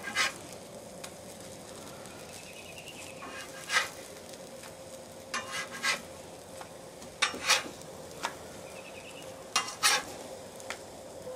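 Potato cakes frying in bacon grease on a Blackstone steel griddle, sizzling steadily. A metal spatula scrapes and clacks on the griddle top every second or two, about six times, as the cakes are flipped.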